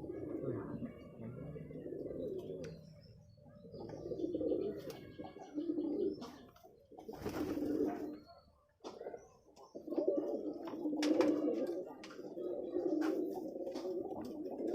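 A flock of domestic pigeons, Rajshahi Giribaz and Pakistani breeds, cooing in their loft, many low calls overlapping, with scattered sharp clicks among them.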